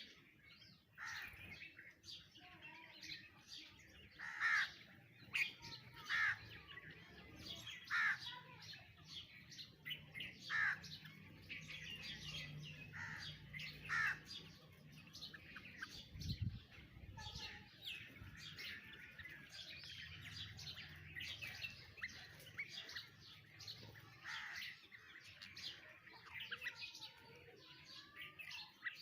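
Several birds chirping and calling together, with a run of loud, short calls every second or two through the first half. A dull low thump comes about halfway through.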